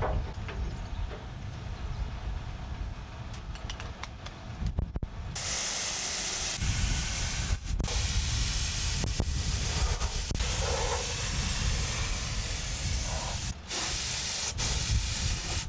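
Compressed-air paint spray gun hissing as undercoat is sprayed on, starting abruptly about five seconds in and pausing briefly twice between passes. A quieter, duller noise comes before it.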